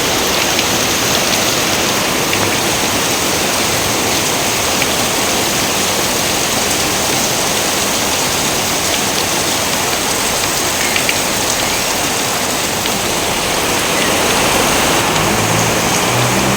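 Steady rain pouring, with a low rumble coming in near the end.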